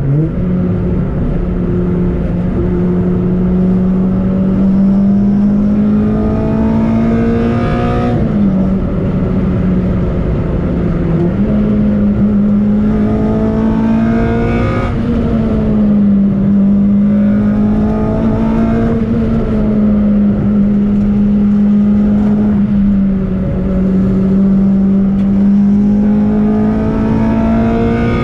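Race-prepared Toyota Corolla T-Sport's engine pulling hard on the road. Its pitch climbs and then drops several times as it shifts up and down through the gears, over a steady rumble of road and tyre noise.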